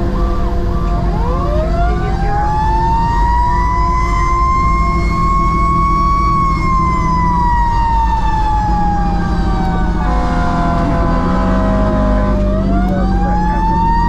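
Fire engine siren wailing over the truck's running engine: the siren climbs slowly in pitch for about five seconds, falls gradually for about six, then climbs again near the end.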